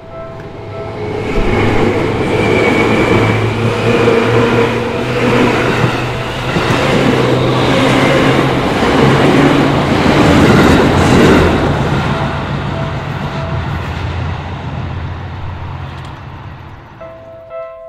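A Seibu Railway electric commuter train runs through a level crossing. Its rumble builds about a second and a half in, is loudest a little past the middle, and fades away over the last few seconds. The crossing's electronic warning bell sounds under it.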